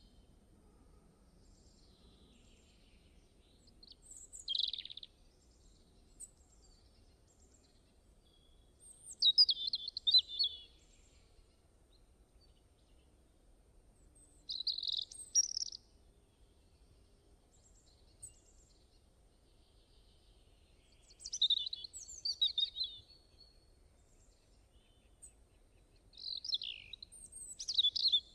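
A songbird singing short, high chirping phrases about every five or six seconds, with quiet gaps between them.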